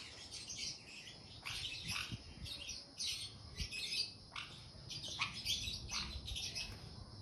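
Birds chirping: many short, sharp, high calls, one or two each second, some overlapping.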